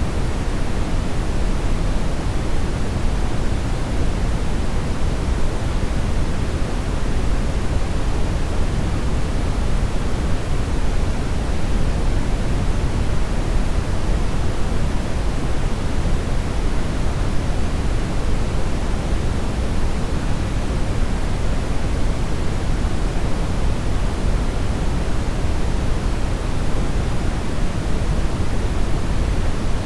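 Steady synthetic brown noise: a deep, even rumbling hiss, strongest in the low end and fading toward the highs, unchanging throughout.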